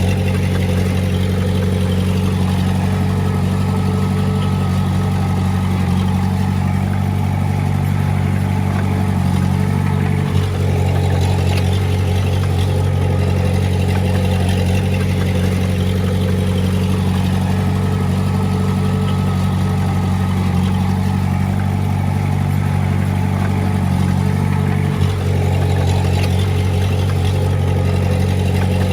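Komatsu D20A bulldozer's diesel engine running at a steady speed, with a brief knock about ten seconds in and again near twenty-five seconds.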